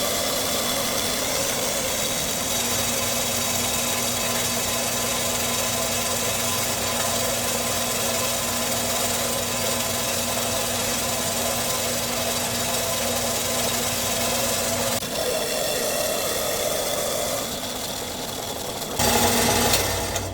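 Metal-cutting band saw running steadily as it cuts through metal stock. The sound changes about 15 seconds in, then the saw shuts off near the end when its auto-off switch trips too early, before the cut is finished.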